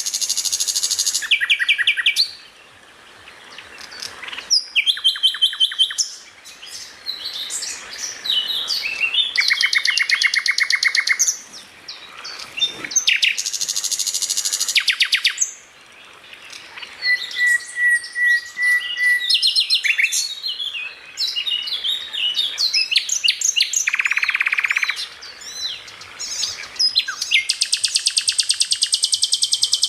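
Songbird song in a fast, varied medley: rapid trills, buzzy chattering runs, repeated sharp chips and short whistled notes, phrase after phrase with brief pauses between.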